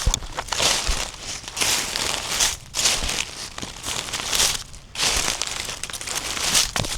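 Footsteps crunching on a woodland trail at a walking pace, about one step a second.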